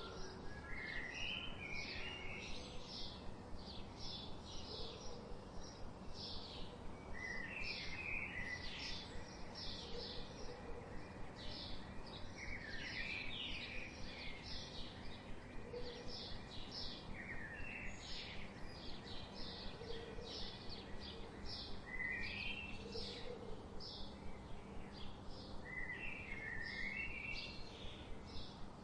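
Birds chirping over a steady background hiss and a low hum: many short high chirps a few times a second, with a slightly lower call phrase every couple of seconds.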